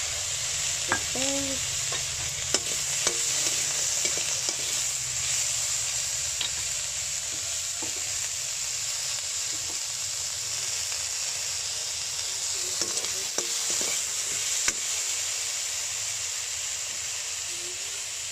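Whole prawns frying in butter in a wok, a steady sizzle, with a utensil clicking against the pan now and then as they are stirred.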